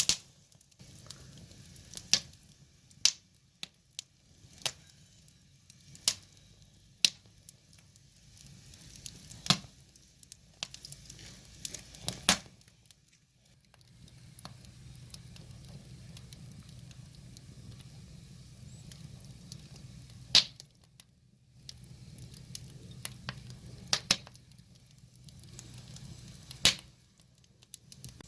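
Firewood fire crackling: sharp, irregular pops and snaps from the burning logs, one every second or few, with a long lull in the middle. Between them runs a soft hiss and low rumble of the flames.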